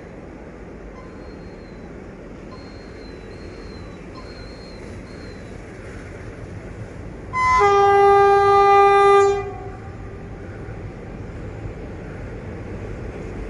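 Train running past with a steady rumble, and the diesel locomotive's horn sounding one loud blast of about two seconds a little past the middle.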